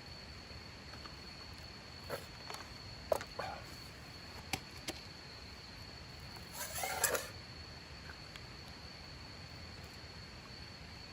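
Insects buzzing steadily on one high note, with a few scattered sharp clicks and knocks and a short clattering rustle about seven seconds in.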